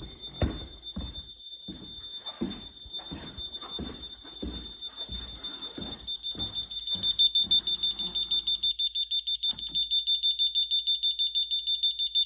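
Home security alarm keypad sounding a high beep tone after the system is armed, first steady, then rapid beeping of about four a second and louder from about halfway through, typical of an exit-delay countdown. Footsteps walk along with it until about two-thirds through.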